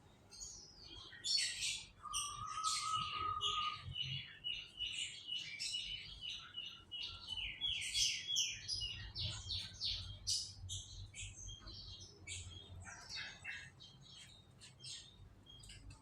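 Domestic canary singing: a long rolling song of quick chirps and trills, with a held whistled note about two seconds in followed by a fast run of repeated notes.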